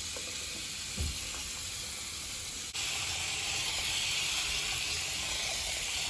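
Steady hissing noise that gets louder about three seconds in, then stops abruptly; a faint thump about a second in.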